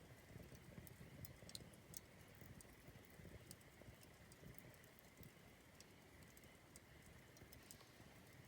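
Faint campfire burning, with scattered small crackles and pops from the wood.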